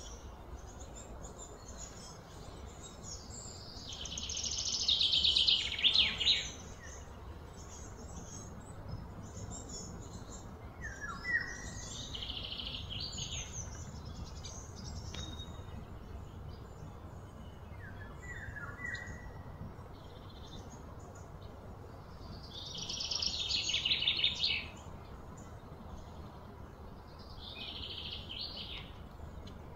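Birds calling: a few short falling calls and several rapid trilling bursts, the loudest about four to six seconds in and again near the end, over a steady low background rumble.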